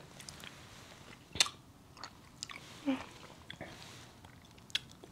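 Close mouth sounds of biting and chewing liquor-filled chocolates, with a few sharp clicks, the loudest about a second and a half in.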